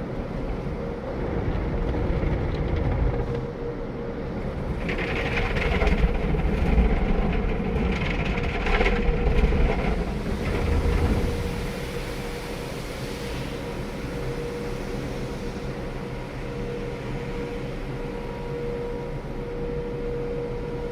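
Automatic car wash machinery working over a car: a heavy rumble with hissing spray that swells for several seconds, then settles about halfway through into a quieter steady machine hum with a constant tone.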